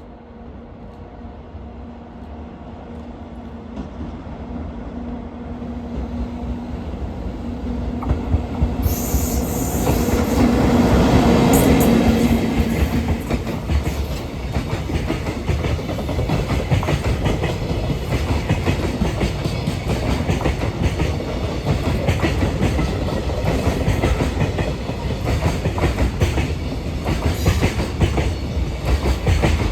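JR Freight EF64 1000-series electric locomotive hauling a container freight train, approaching and passing. A steady hum grows louder until the locomotive goes by about eleven seconds in. Then the container wagons' wheels keep up a continuous clickety-clack over the rail joints.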